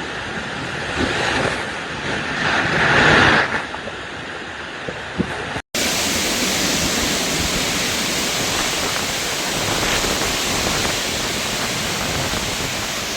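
Storm noise: a rushing hiss that swells and fades twice in the first few seconds, then after an abrupt cut a dense, steady hiss of heavy rain or hail pouring down.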